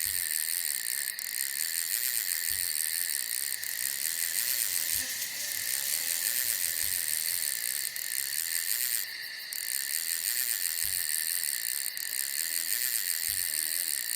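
Dense chorus of night insects, crickets trilling steadily and high-pitched, with a few faint low thumps underneath.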